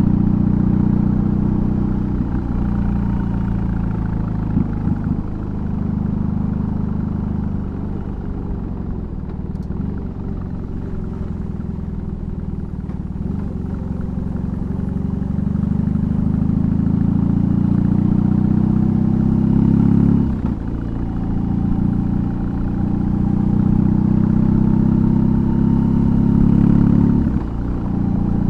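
BMW R18's big boxer twin through a custom exhaust, under way: the engine eases off and falls in pitch, then pulls up with rising pitch, with short breaks about 20 and 27 seconds in typical of upshifts.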